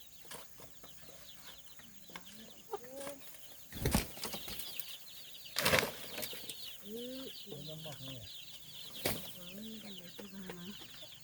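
Farmyard poultry calling in short low clucks and honks over a dense chatter of high peeping, broken by three loud sudden noises, about four, six and nine seconds in.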